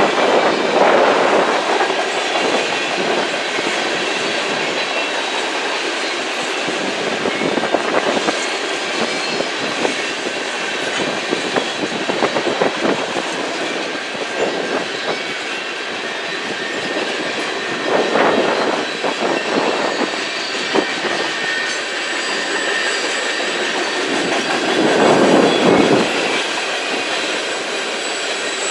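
Freight cars (covered hoppers and tank cars) rolling past: a steady rumble and clatter of steel wheels on rail, with a thin high squeal. The sound swells louder about a second in, about 18 s in and again around 25 s in.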